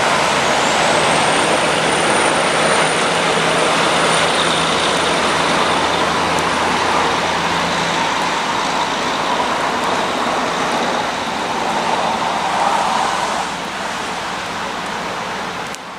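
Heavy trucks on the highway: engine drone and tyre and road noise. The low engine drone drops away about halfway through, and the road noise eases off near the end.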